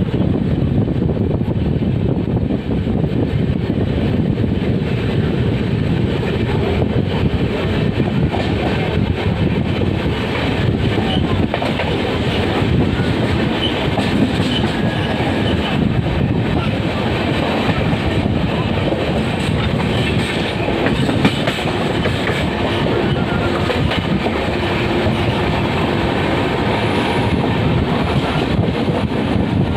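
A train running along the tracks: steady wheel-on-rail noise with many faint knocks, unbroken throughout.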